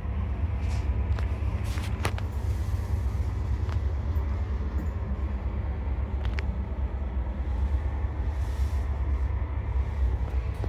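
Steady low rumble of a Class 231 diesel multiple unit, with a few light clicks.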